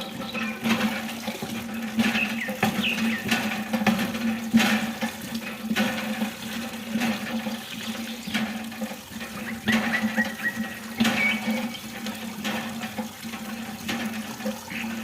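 Water running and splashing from a miniature hand pump model, with a steady low hum underneath.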